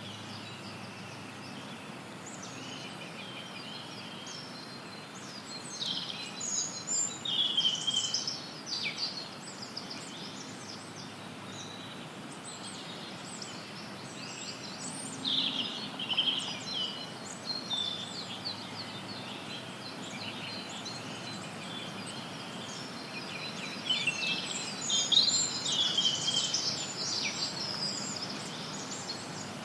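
Forest songbirds chirping and singing in bursts of quick, high phrases, with several calling together at times, over a steady hiss of added white noise.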